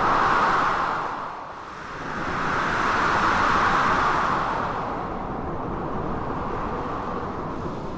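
Storm ambience: a dense, steady rush of blizzard wind and sea surf that swells twice, first just after the start and again for a couple of seconds in the middle, then eases off.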